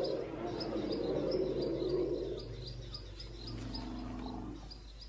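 Small birds chirping: short, high chirps repeating about twice a second, over a lower steady pitched sound that drops away a little past halfway, returns briefly and fades out near the end.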